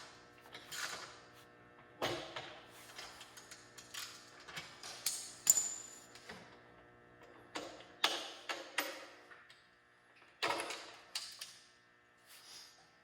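Hand tools on motorcycle exhaust hardware: irregular metal clicks, knocks and clanks as the muffler's mounting bolts are undone, with one brief high metallic ring about five and a half seconds in.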